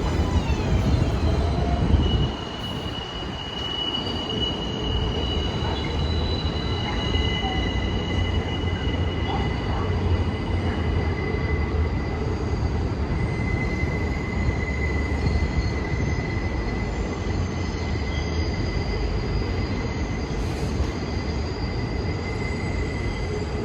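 New York City subway train running with a low rumble, its steel wheels squealing in long, steady, high-pitched tones that come and go. The overall sound drops a little about two seconds in.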